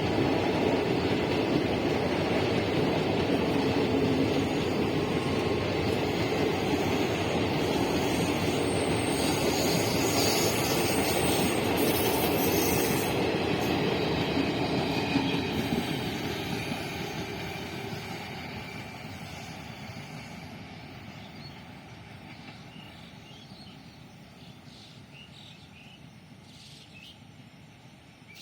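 Coaches of an Indian Railways express train rolling past at speed, a steady rumbling rattle of wheels on rails. From about 15 seconds in it fades gradually as the train draws away.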